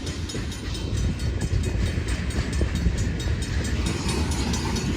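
BNSF freight train rolling slowly past: a steady low rumble of the wagons' wheels on the rails, with faint rapid ticking above it.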